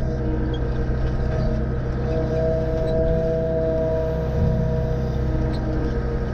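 A small engine running steadily, with a higher whine over it that grows stronger for a couple of seconds in the middle.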